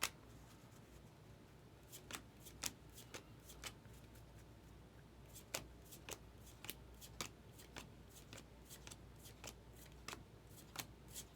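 Baseball trading cards being flipped through by hand: faint, short snaps as each card is slid off the stack, irregular but about two a second, with a brief pause about four seconds in.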